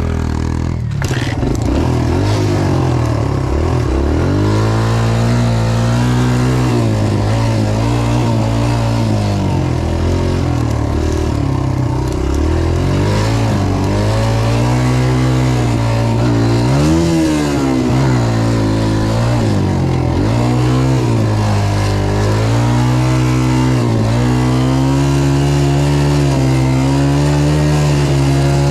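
Dirt bike engine revving up and down while riding a motocross track, its pitch climbing and dropping again and again with throttle and gear changes.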